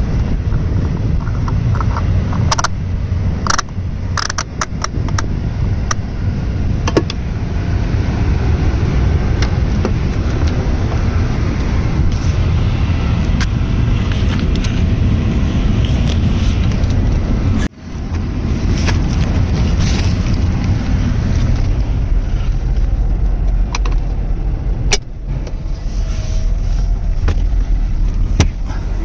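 1992 Subaru SVX's 3.3-litre flat-six running, a steady low rumble with scattered clicks and knocks over it. The sound drops out briefly about two-thirds of the way through.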